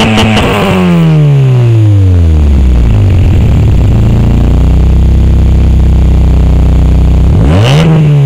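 Daewoo Lanos with a C20XE 2.0 16-valve four-cylinder and a 2.25-inch (60 mm) free-flowing exhaust: held at high revs at first, then let fall back over a few seconds to a steady idle. Near the end the throttle is blipped once, a quick rise and fall in revs.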